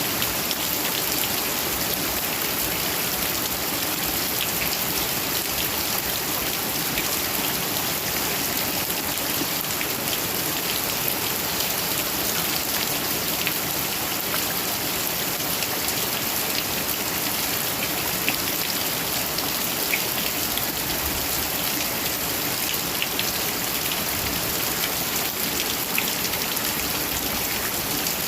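Heavy rain falling steadily: a dense, even hiss with many small, sharper drop ticks scattered through it.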